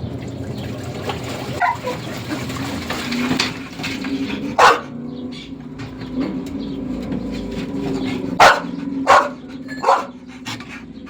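A dog barking for attention: one loud bark about halfway through, then three barks in quick succession near the end.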